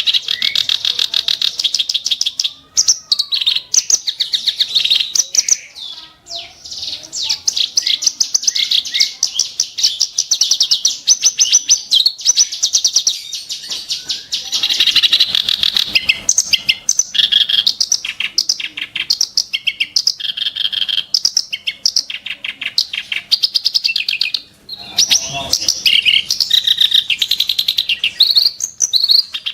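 A reed warbler (kerak basi) singing a long, fast, harsh chattering song of rapid high notes, broken only by a few brief pauses.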